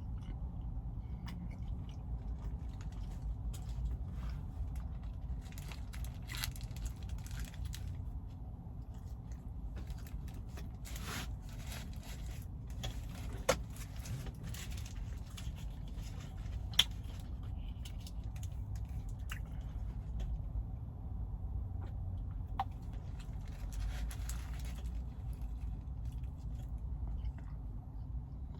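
A person chewing food close to the microphone, with scattered small clicks and rustles over a steady low hum; two sharp clicks stand out near the middle.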